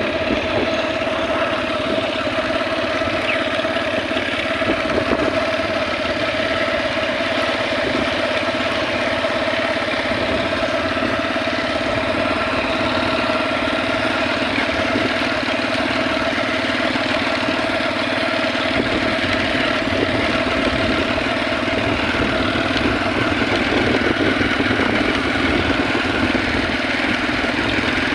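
Hero Splendor motorcycle's single-cylinder four-stroke engine running at a steady, even pitch.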